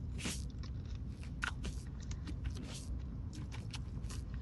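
Someone eating a McDonald's pie: bites and chewing on its crunchy crust, heard as scattered short crunches and clicks over a low steady hum.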